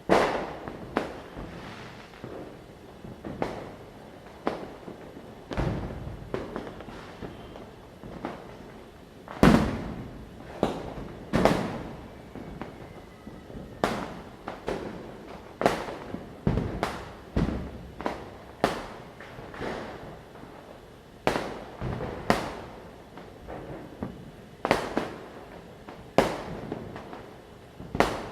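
Firecrackers bursting in irregular succession, one or two sharp cracks a second, each trailing off in an echo, with the loudest bangs about a third of the way through.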